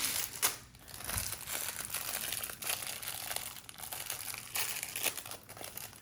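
Plastic bag crinkling as loose Lego pieces are shaken in it to mix them, in an irregular run of rustles, loudest right at the start.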